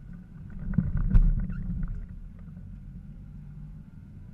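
Kia Sportage 4x4 engine running steadily under load on a muddy forest track. About a second in there is a brief cluster of knocks and rattles as the vehicle jolts over the ruts.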